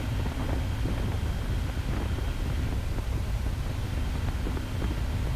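Steady wind rush and low engine and road noise from a BMW motorcycle cruising, heard through a helmet-mounted GoPro.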